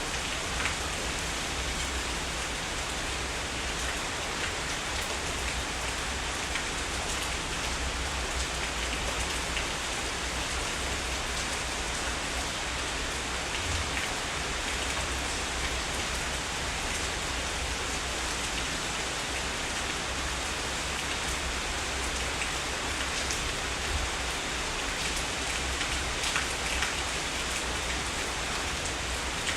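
Heavy rain falling steadily, a dense even hiss with scattered louder drops and a low steady rumble beneath.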